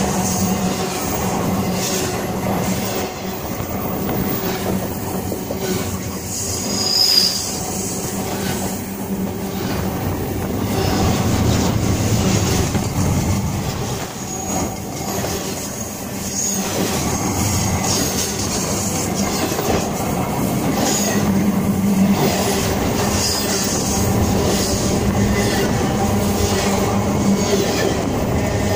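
Freight train cars rolling past within inches of the microphone: a steady, loud rumble of steel wheels on rail with clacks over the rail joints, and brief high wheel squeals a few times.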